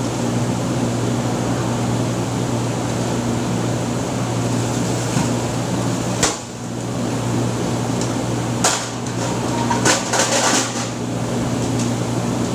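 Steady electric hum of press-shop machinery, with one sharp metal clank about halfway through and a short run of clattering knocks near the end.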